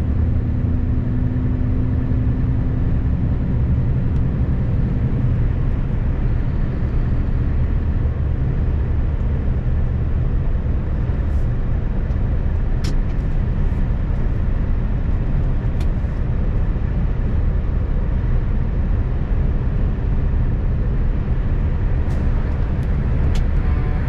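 Scania 770S truck's 16.4-litre V8 diesel running steadily under way, with a deep, even rumble and road noise.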